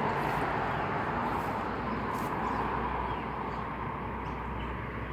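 Steady outdoor background noise with a low, even hum underneath.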